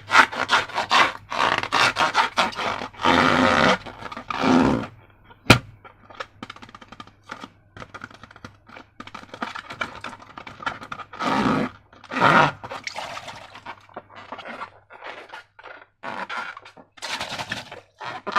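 Slime being squished, stretched and folded by hand, a run of sticky, wet crackling and squelching noises that come in clusters, with one sharp snap about five and a half seconds in.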